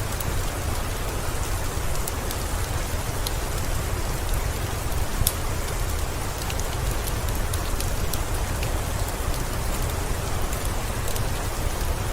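Steady rain falling, with a deep rumble underneath and scattered sharp ticks throughout.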